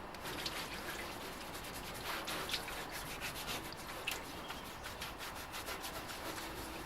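A brush scrubbing a part clean with degreaser: irregular scratchy strokes.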